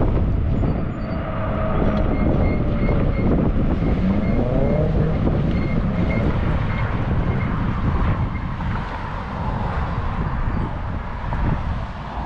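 Wind buffeting the microphone of a moving e-bike, mixed with passing road traffic. A vehicle tone glides in pitch a few seconds in.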